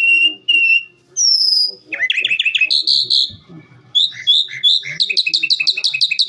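Calandra lark singing a varied song: two clear whistled notes, a falling whistle, quick trills, then a fast even run of repeated notes, about six a second, near the end.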